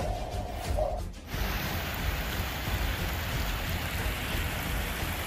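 Heavy rain, a steady, even hiss that sets in abruptly about a second in.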